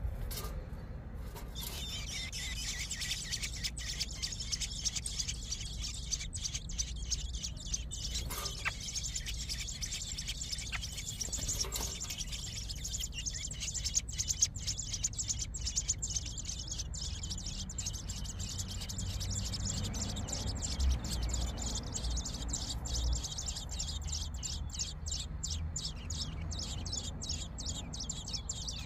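American robin nestlings begging: a continuous stream of high, rapid chirps that turns into a quicker, more even chatter near the end.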